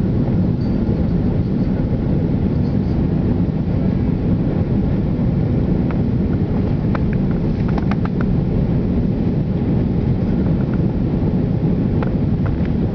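Steady low rumble of an airliner's engines and rushing air heard inside the passenger cabin during the approach, with the flaps extended.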